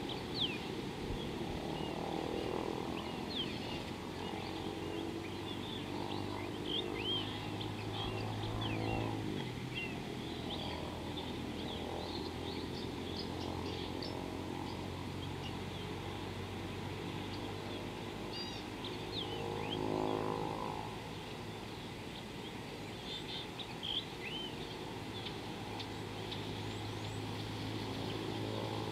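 Small birds chirping, many short calls throughout, over a steady low hum and a lower drone that swells and fades about twenty seconds in.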